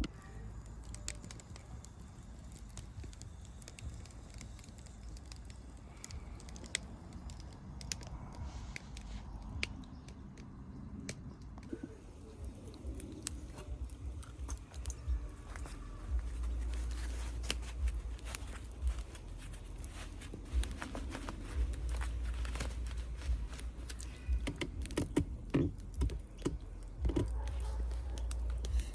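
Scattered small clicks, taps and rustles of things being handled, with a low rumble that comes and goes and is strongest over the second half.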